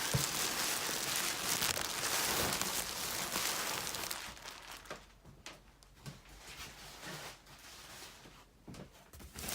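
Packaging rustling and crinkling as a cardboard shipping box is opened and its contents handled, dense for about the first four seconds, then dropping to softer, scattered rustles and light knocks.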